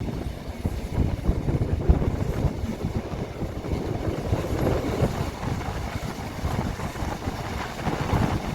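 A moving train rumbling, with wind buffeting the microphone.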